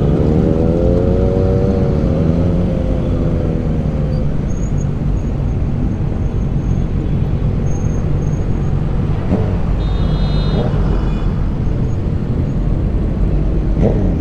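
Motorcycle riding at night: a steady rush of engine and road noise, with an engine's pitch rising and then falling over the first few seconds. A brief high-pitched tone comes about ten seconds in.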